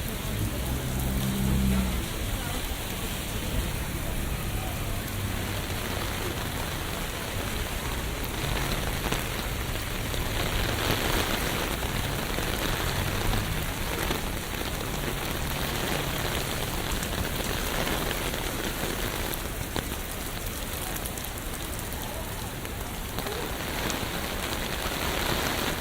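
Steady rain falling on hard city surfaces, a dense even hiss that swells for a few seconds midway and again near the end, with a low hum coming and going beneath it.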